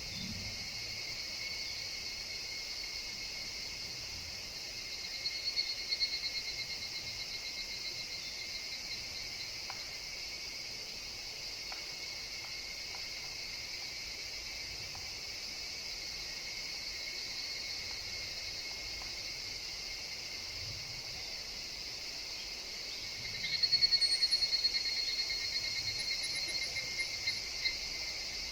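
Higurashi evening cicadas in a steady chorus. A nearer one calls with a rapid pulsing phrase briefly about five seconds in, and again louder from about 23 seconds in, lasting several seconds.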